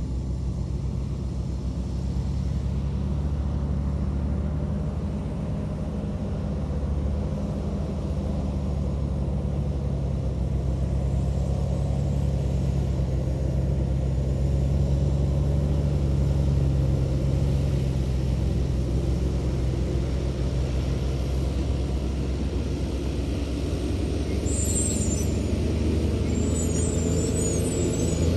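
Heavy construction machinery's diesel engine running steadily with a low drone. Near the end come two brief high squeaks.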